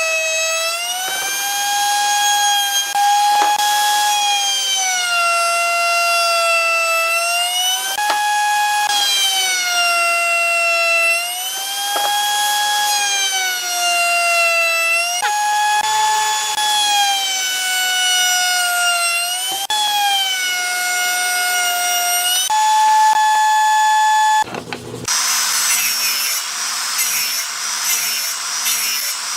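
High-speed electric woodworking power tool whining, its pitch sagging and recovering every few seconds as it is pushed into the wood. About twenty-five seconds in it stops sharply, and a different machine takes over with a low hum and a fast rubbing, scraping sound against the wood.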